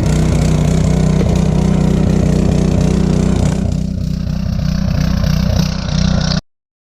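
Small gasoline engine of a log splitter running steadily at a constant speed, then cutting off abruptly near the end.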